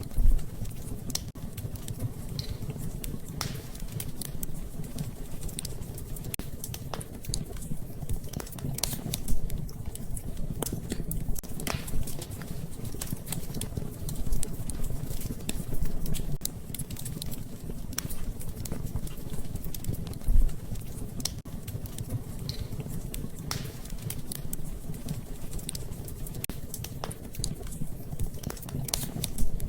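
Wood fire crackling in a fireplace: a steady low rumble with many small irregular crackles and a few louder pops.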